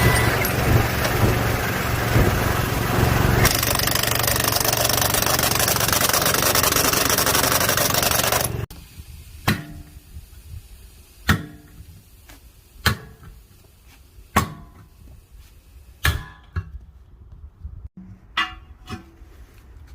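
Truck tyre-changing work: a machine runs steadily with a low hum for the first half, then stops abruptly. Five hard, ringing blows follow, about one every second and a half, then a few lighter knocks near the end.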